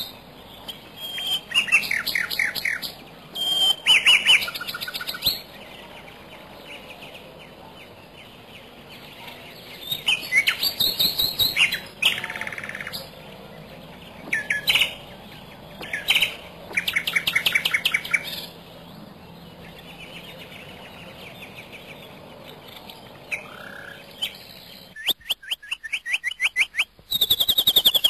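Birds calling in short, rapid chirping trills, each lasting a second or two and coming every few seconds, with a quiet spell of several seconds past the middle and a louder, fuller trill near the end.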